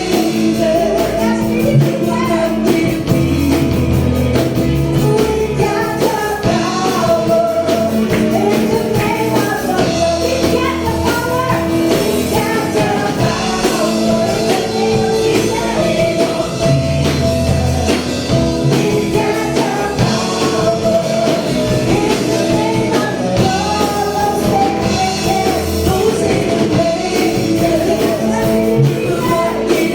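Christian worship song: singing over band accompaniment with a steady beat.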